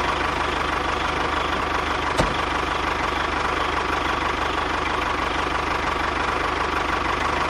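A small motor running steadily with a fast, even rattle, with one sharp click about two seconds in.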